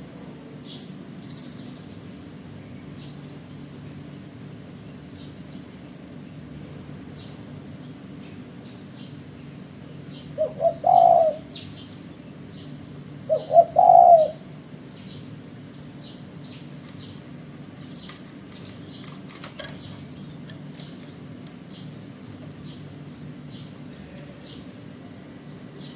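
Spotted dove cooing: two short multi-note coo phrases about three seconds apart, near the middle. Faint high chirps repeat in the background, over a steady low hum.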